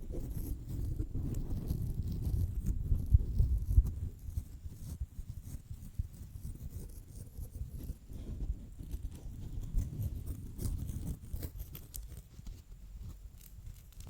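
Fingers scratching directly on a microphone: dense, irregular low scraping and thudding with scattered sharp crackles. It is louder for the first few seconds, then softer and sparser.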